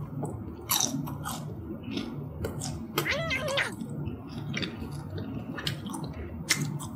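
Close-up chewing and crunching of guobaorou, Chinese fried sweet-and-sour pork, whose batter is hard and crackly, with a string of short crisp crunches. About three seconds in, the eater makes a brief wavering hummed vocal sound.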